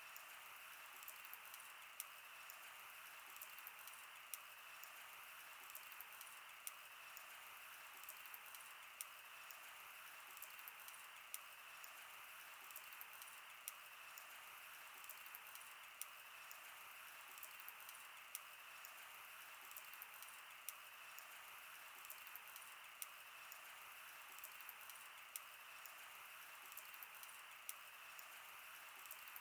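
Wood bonfire burning: a soft steady hiss with frequent, irregular sharp crackles and pops from the burning wood.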